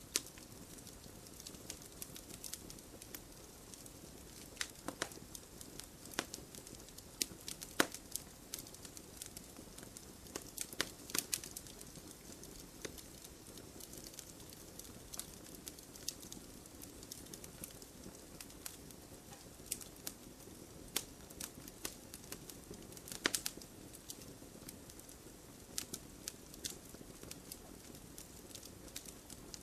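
Wood fire burning: a steady soft hiss under irregular crackles and sharp pops of burning wood.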